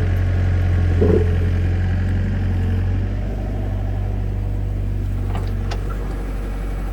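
A vehicle engine running steadily with a low hum that eases slightly about three seconds in.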